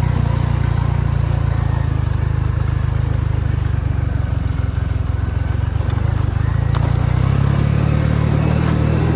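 Motorbike engine running steadily while riding, with a low drone throughout; its note changes slightly about seven seconds in.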